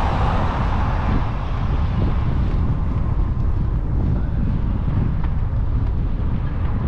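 Wind rumbling on the microphone and rolling noise from an e-bike ridden along a paved trail, with a hiss that fades over the first second or two.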